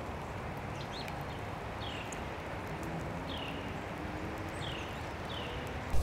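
A bird calling with a few short, high notes that slide downward, about four of them in the second half, over a steady background rush.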